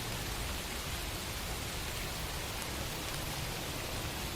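Steady, even background hiss with no other sound in it.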